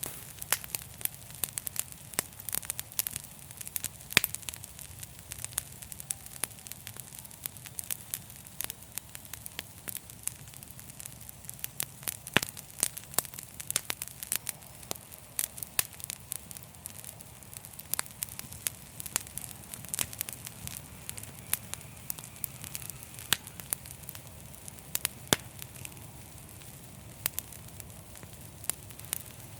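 Fireplace fire crackling: frequent, irregular sharp pops and snaps over a steady low rumble of flame.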